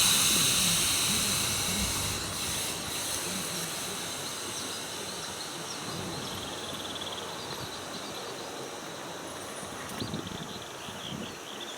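Air hissing out of an inflatable boat's open valve as it is deflated: loudest at first, then slowly fading as the pressure drops.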